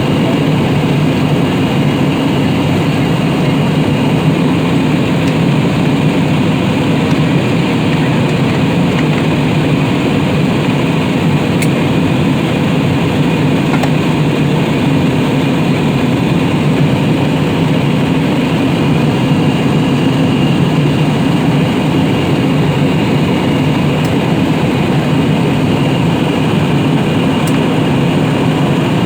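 Steady cabin noise of an airliner in flight: a constant low rumble of engines and airflow with a faint high hum, unchanging throughout.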